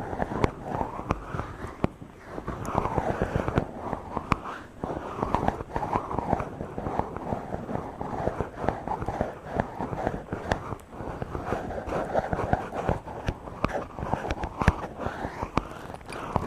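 A microphone being rubbed directly for ASMR: continuous close scratchy rubbing strokes with dense crackles and soft knocks, swelling and fading every second or two.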